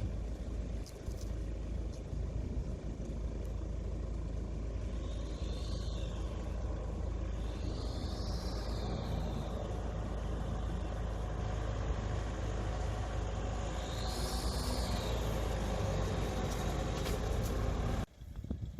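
Steady low rumble of a vehicle in motion, with a few faint rising-and-falling whines, cutting off suddenly near the end.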